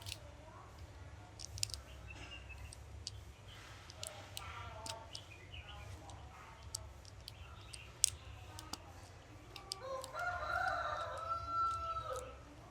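A rooster crowing once, about two seconds long, near the end, ending on a held note. Scattered light clicks and taps run throughout, with a fainter call about a third of the way in.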